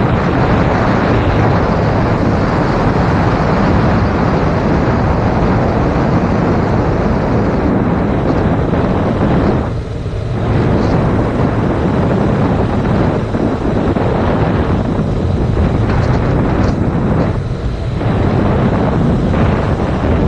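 Heavy wind noise roaring over an action camera's microphone on a moving motorcycle, with brief lulls about ten and seventeen seconds in.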